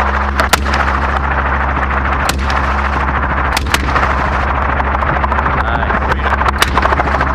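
Several scattered gunshots, some in quick pairs, fired from a hunting helicopter at hogs, over the helicopter's steady rotor and engine drone.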